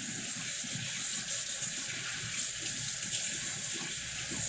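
Kitchen tap running in a steady stream of water.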